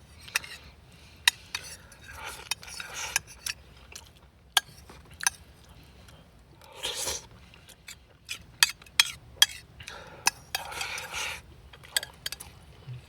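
Eating utensils clicking and scraping against dishes: scattered sharp clicks with a few short scraping passes.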